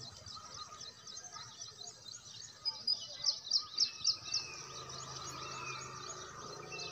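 Small birds chirping rapidly and continuously, with a run of about seven louder, sharp chirps in the middle, a few short falling whistles mixed in.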